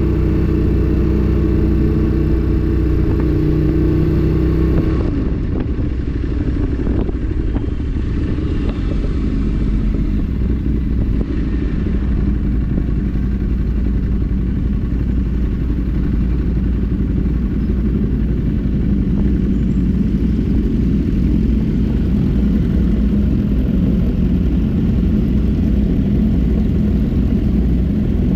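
Motorcycle engine running on the move with wind rushing over the microphone. About five seconds in the steady engine note drops away into a rougher, noisier rumble.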